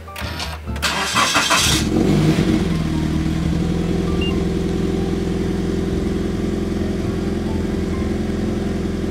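Car engine cranked and started through a newly fitted aftermarket Valvetronic valved exhaust. It catches about two seconds in with a short flare that falls away, then settles into a steady idle.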